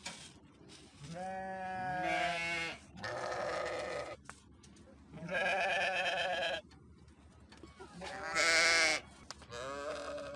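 Sheep bleating repeatedly: about five separate quavering bleats, each around a second long with short pauses between, the loudest about eight seconds in.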